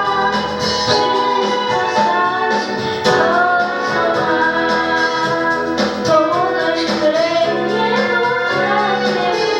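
A young woman singing a song solo, over instrumental accompaniment.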